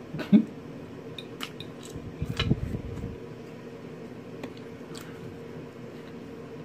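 Close-up chewing and lip smacking of a mouthful of baked salmon, with a few short clicks of a metal fork against a plate, the sharpest just after the start and more about two and a half seconds in.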